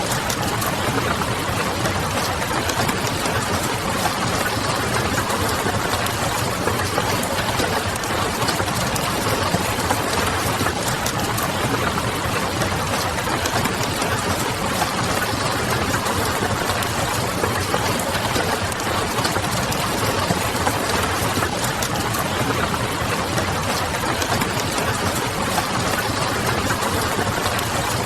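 Steady rain with the fine crackle of a wood fire over it, a continuous even texture of small clicks with no breaks.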